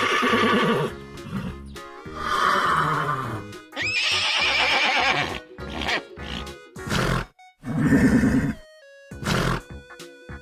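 Horse whinnying: three long neighs, then several shorter calls, over background music.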